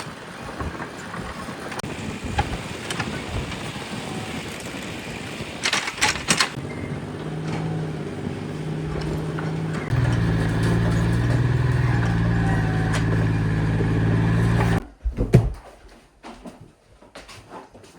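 An engine running, steadier and louder from about ten seconds in, then cutting off suddenly about fifteen seconds in; a few knocks follow.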